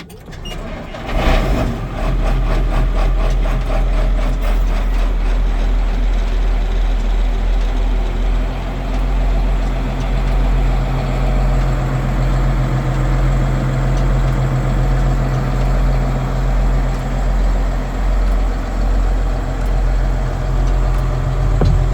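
A Ford New Holland 8770 tractor's 7.5-litre six-cylinder diesel engine. It surges loudly about a second in, then settles into a steady idle.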